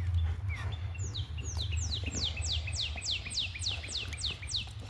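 A songbird singing a run of about a dozen quick, clear downslurred whistles, roughly three a second, starting about a second in, over a steady low rumble.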